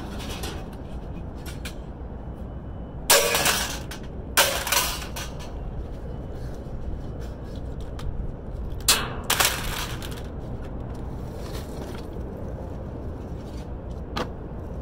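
Scrap being handled and tossed: several sharp clattering knocks, in pairs about three, four and a half, and nine seconds in, and one small knock near the end, over a steady low rumble.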